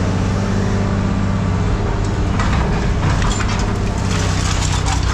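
A steady engine-like mechanical hum, with clattering and knocks rising over it about halfway through.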